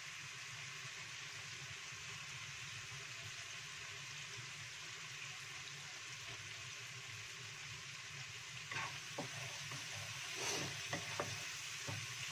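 Chilli spice paste sizzling steadily in hot oil in a frying pan as it is sautéed until fragrant. About two-thirds of the way in, a spatula starts stirring and scraping through it.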